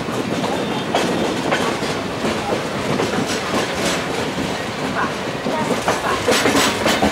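Express train coach running along the track, a steady rumble with repeated clickety-clack of the wheels over rail joints, heard from on board. The clicks come thicker and louder near the end.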